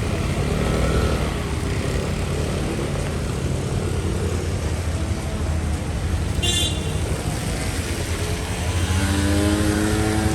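Street traffic: vehicle engines running as they pass, with one engine rising in pitch near the end. There is a brief high squeak about six seconds in.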